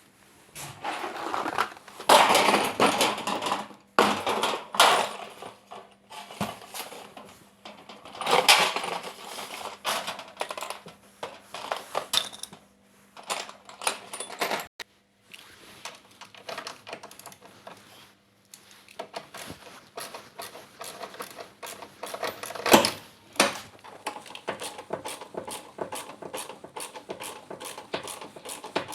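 Metal tools and parts clinking and clattering in irregular bursts, with a few sharp knocks, as bolts are undone on an old Samsung washing machine's motor with a 10 mm socket.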